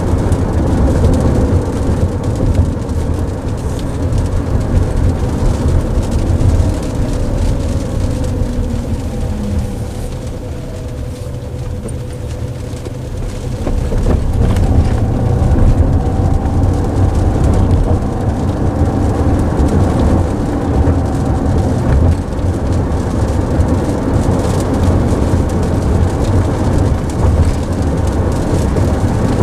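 Steady road and tyre rumble heard inside a car cabin while it drives in heavy rain, with rain on the body and wet road mixed in. It grows a little quieter about ten seconds in, then louder again a few seconds later.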